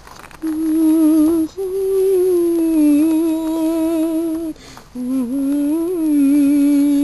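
A person humming a slow tune with a wavering pitch, in three long held phrases with short breaks between them.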